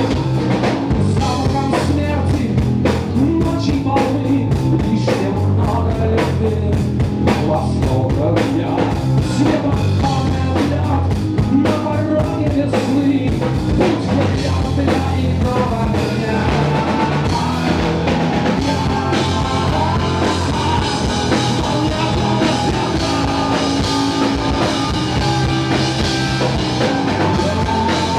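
Live rock band playing loudly with a drum kit. The drums hit densely for the first half, then about halfway through the music shifts to a sparser passage with more held tones.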